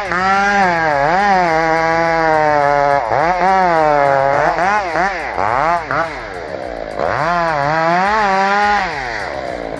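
Chainsaw cutting through a big tree trunk under load, its engine pitch sagging and picking back up again and again as the chain bites. It dies away near the end.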